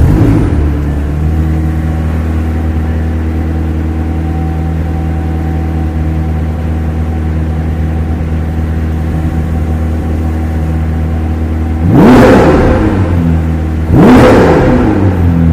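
McLaren 765LT's twin-turbo V8 idling steadily, then revved twice near the end, each blip rising sharply in pitch and falling back to idle.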